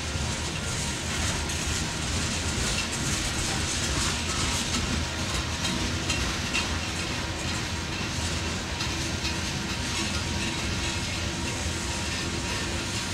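Empty open-top rock hopper cars of a freight train rolling steadily past, their wheels clacking over the rails.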